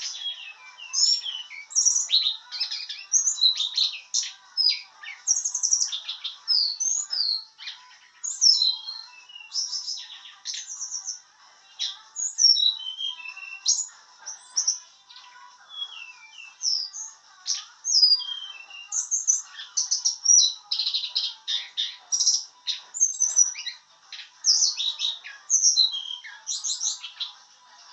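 Tledekan gunung songbird singing a long run of quick high chirps, short trills and sweeping notes with only brief pauses: a young bird practising its rolling song. A faint steady hum sits under it.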